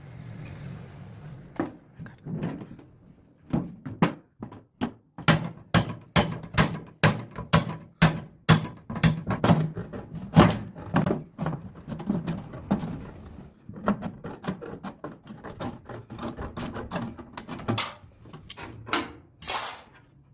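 A long series of sharp knocks, about two a second, with a few short pauses.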